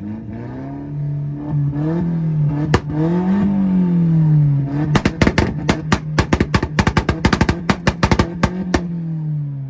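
Honda car engine revved up and down several times, with a single sharp bang, then held on a two-step rev limiter, firing a rapid, irregular string of loud exhaust pops and bangs for about four seconds before easing off.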